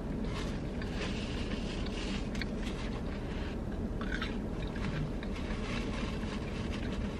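Close-up mouth sounds of someone chewing a bite of fried chicken: soft, irregular chewing noises over a steady low hum.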